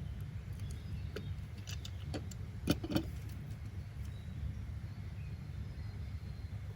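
Steady low background rumble with a handful of light clicks and knocks, the loudest two a little under three seconds in.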